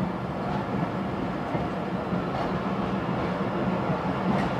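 Passenger train carriages rolling past, their wheels on the rails making a steady rumble.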